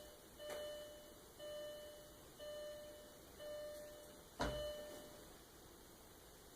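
A car's dashboard warning chime beeping about once a second, four times, with the ignition on while the diesel's glow plugs cycle, then a single sharp click about four and a half seconds in.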